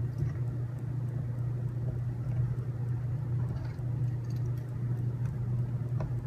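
Steady low background hum, with a few faint light clicks from small parts and screws being handled.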